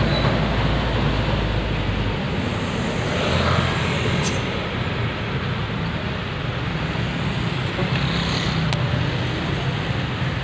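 Heavy highway traffic dense with big trucks: a steady rumble of engines and tyres, with vehicles hissing past about 3 and 8 seconds in.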